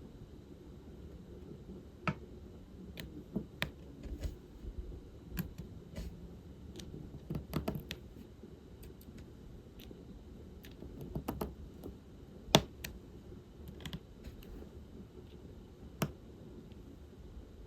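Light, irregular clicks and taps of diamond painting work: a drill pen picking up small plastic drills and pressing them onto the sticky canvas, with one sharper click about halfway through.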